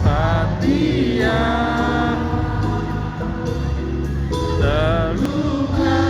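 Band music with a singing voice, held notes wavering in pitch over a steady backing of low bass and chords.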